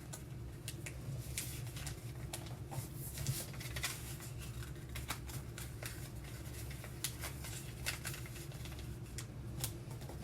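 Sheet of paper being folded and creased by hand into an origami boat: scattered short crinkles and rustles.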